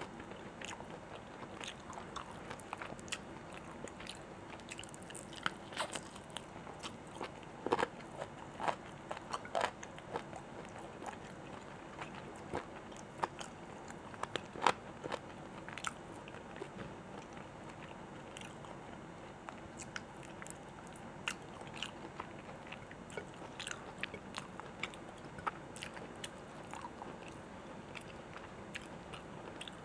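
Close-miked chewing and biting of food, with scattered sharp crunches and mouth clicks over a soft steady background.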